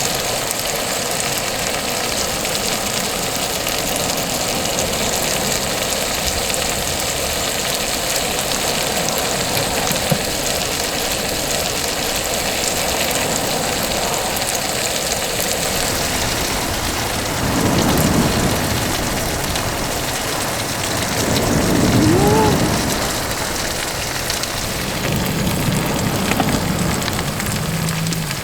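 Stir-fry of roe and milt sizzling steadily in a pan, with a couple of louder swells partway through.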